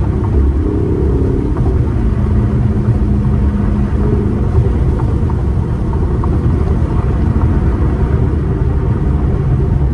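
Car engine and exhaust droning steadily while driving, under a heavy low rumble of road and wind noise.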